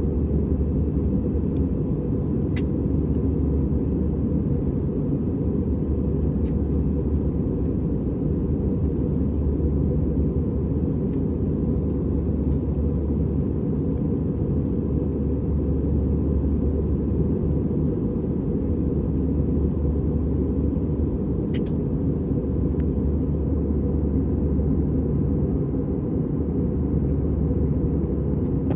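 Steady, even rumble of engine and airflow noise heard inside an Airbus A320's passenger cabin in flight, with a few faint clicks.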